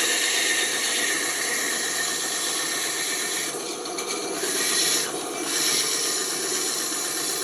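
Band saw running and cutting through wood, a steady rasping hiss over the hum of the machine, with the cutting sound briefly changing twice in the second half as the feed varies.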